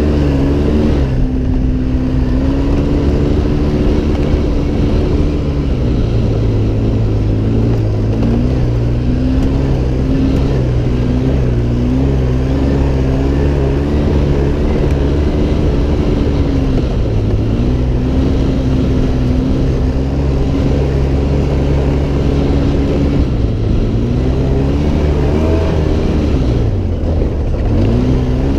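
Off-road vehicle engine running under load while driving, its pitch holding, then rising and falling as it speeds up and slows down, with a short drop and climb again near the end.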